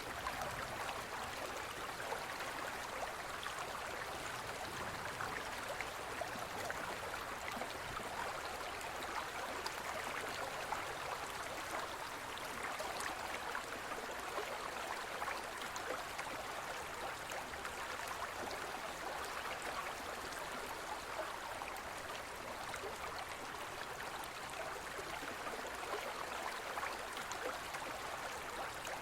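A gentle forest stream flowing steadily: an even rush of running water with fine splashes scattered through it.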